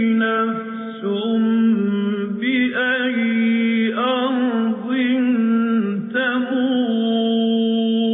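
A male reciter chants Quranic verses in the slow melodic tajweed style, drawing out long held notes that waver and glide in pitch, with only brief breaks between phrases.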